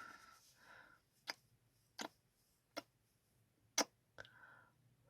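Close-miked ASMR kissing: five short, sharp lip smacks about a second apart, with soft breaths between them.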